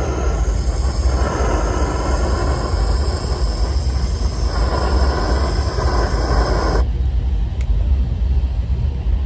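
Propane roofing torch burning with a steady low rumble and hiss; about seven seconds in the hiss cuts off sharply as the flame is turned down, leaving a low rumble.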